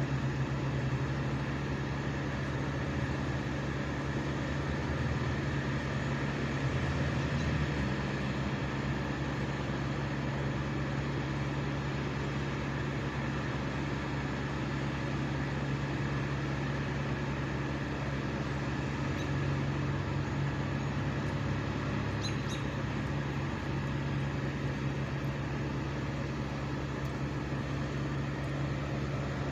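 Engine running steadily at high speed, its pitch holding constant.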